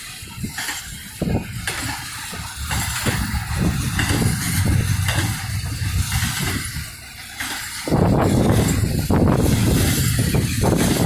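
Wind buffeting the microphone from a car moving at highway speed, about 70 mph, over a low rumble of road and vehicle noise; the gusting rises and falls, then gets suddenly louder about eight seconds in.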